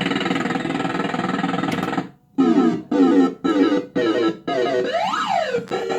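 Bell-Fruit Cash Explosion fruit machine sounding its electronic game tune: a busy, steady run of synth tones for about two seconds, then after a brief break five quick jingles about half a second apart, and a tone that sweeps up and back down near the end.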